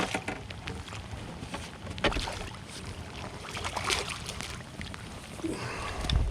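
Knocks and clicks in a small fishing boat over a steady hiss of wind and light rain, with a heavier low thump near the end.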